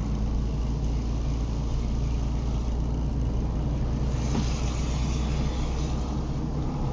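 Car driving on a wet road in the rain: steady low engine and tyre rumble, with a hiss of water spray that swells about three seconds in and fades a couple of seconds later.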